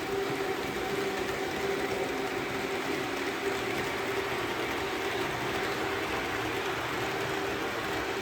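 HO-scale model train running on its track: a steady motor hum over the continuous rumble of wheels on the rails.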